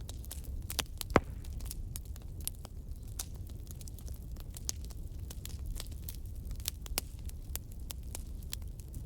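Logs burning in a fireplace: irregular wood crackling over a steady low rumble of flame, with one sharp, louder pop about a second in.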